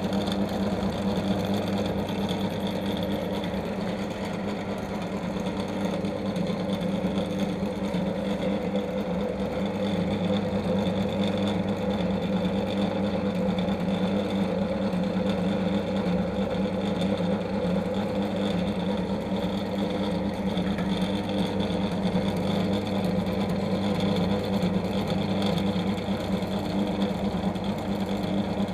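Metalworking machine tool running steadily under its electric motor, with a constant hum and the noise of the cut.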